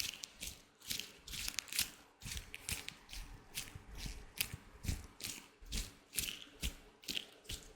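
Latex gloves on hands being rubbed, stretched and crinkled close to the microphone, a quick run of crisp crackling rustles with soft taps under some of them.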